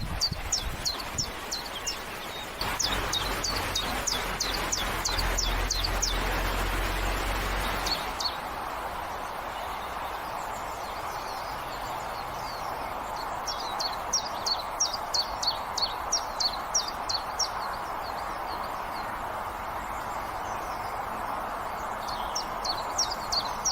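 Common chiffchaff singing: runs of sharp, repeated high notes, each falling quickly in pitch, about three a second. There are three bursts of song with longer pauses between them, over a steady background hiss.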